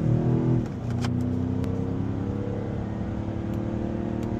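BMW X6M's twin-turbo V8 heard from inside the cabin while driving, with the Valvetronic Designs valved exhaust closed: a quiet, low engine drone. The note climbs, drops at a gear change under a second in, then holds steady.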